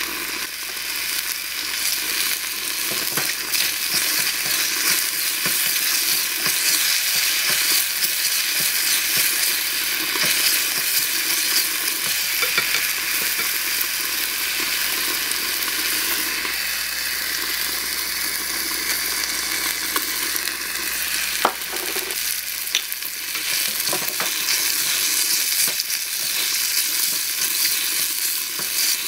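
Beef, onion and mushrooms frying in oil in a miniature stainless steel saucepan over a small flame, sizzling steadily while a small wooden spatula stirs them. Occasional sharp taps of the spatula on the pan stand out past the middle.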